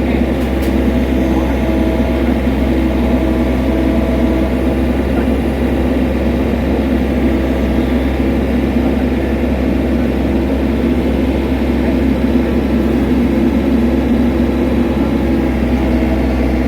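Small excavator's diesel engine running steadily at a constant speed, with a low, even hum throughout.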